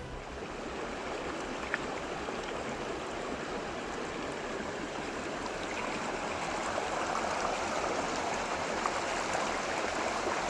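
Water of a small stream running steadily, growing a little louder toward the end.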